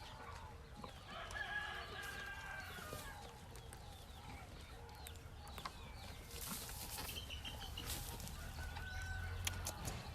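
Farmyard chickens clucking, with a rooster crowing about a second in, one drawn-out call lasting about two seconds, and another shorter call near the end.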